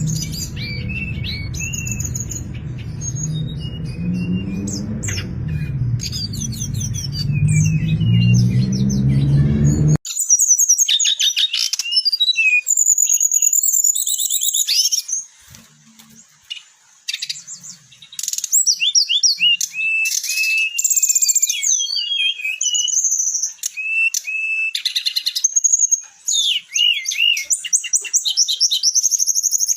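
A brown-chested jungle flycatcher singing loudly and continuously, long varied phrases of high warbles and trills with short pauses. For the first ten seconds low background music plays under the song, then stops abruptly and the song continues alone.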